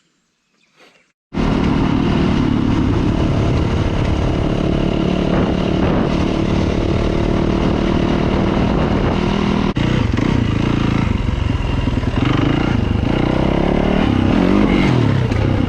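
KTM dirt bike engine running under way, cutting in abruptly after about a second of near silence; near the end the engine note rises and falls with the throttle.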